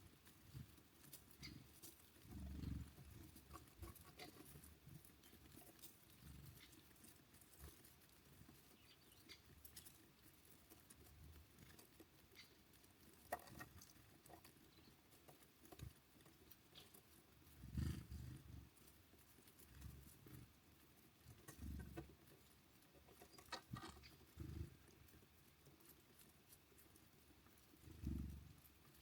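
Faint pecking taps and a few soft, low thumps of small birds feeding and landing at a seed feeder, with no song or calls.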